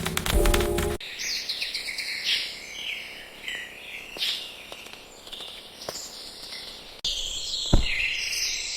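Music for about the first second, then a sudden cut to small birds chirping in short, high, separate calls, some falling in pitch. Near the end the chirping becomes louder and busier, with a brief thump.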